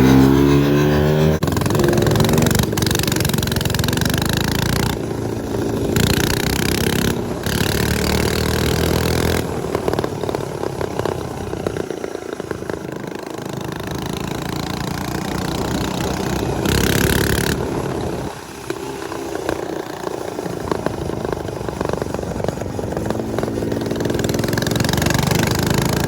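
Small motorcycle and minibike engines running while riding, revving up at the start and again near the end.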